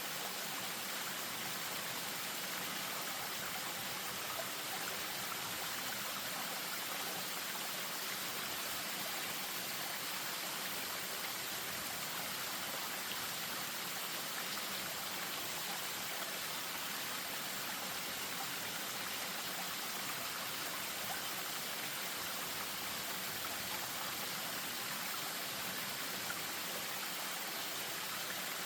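Spring-fed stream running over a small waterfall: a steady, even rush and splash of water with no breaks.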